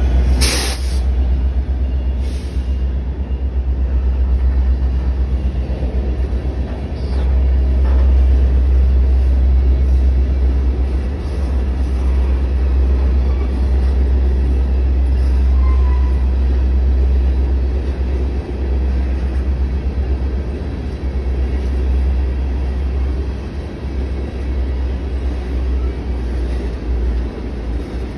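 Coal cars of a freight train rolling past at close range: a steady low rumble of steel wheels on rail, with a couple of sharp clanks right at the start.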